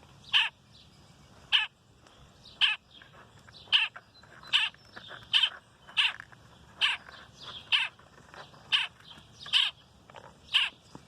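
A fledgling bird that fell from its tree calling over and over, short loud calls about one a second.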